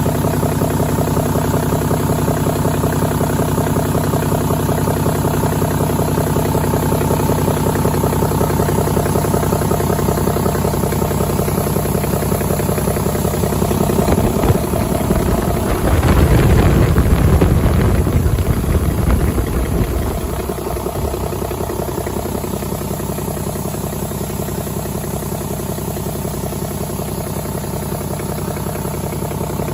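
2009 Cummins ISB 6.7-litre inline-six turbodiesel idling steadily. About halfway through it is revved up for a few seconds, then drops back to idle.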